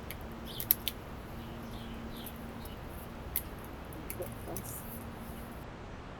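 Light handling noises with a few sharp clicks, the loudest about a second in and another about halfway through, over faint high chirps from small birds and a steady low hum.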